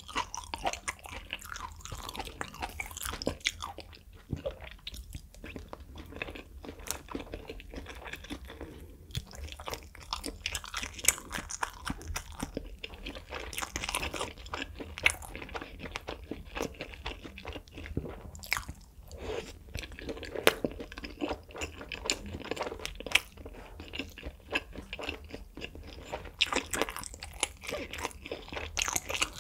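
Close-miked chewing and biting of a spicy fire noodle wrap and grilled beef intestines, with many short, irregular mouth clicks throughout.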